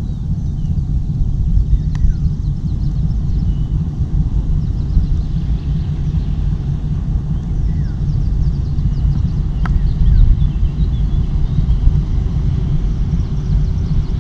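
Wind buffeting the microphone: a loud, steady low rumble with an uneven, gusting level, and a couple of light clicks.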